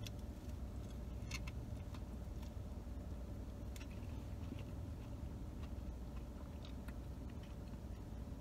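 Quiet chewing of a bite of soft flour-tortilla taco, with faint scattered mouth clicks over a low steady hum.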